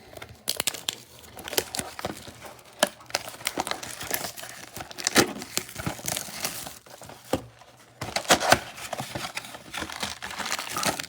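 Plastic and foil wrappers of trading-card packs crinkling and tearing as a box of cards is opened and unwrapped, in an irregular run of crackles and rustles.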